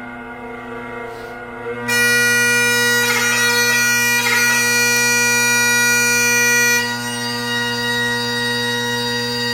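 Great Highland bagpipe playing: the steady drone chord sounds under the chanter melody. About two seconds in, the chanter jumps to a loud high note held for about five seconds, broken by quick grace-note flourishes, then moves on to another note.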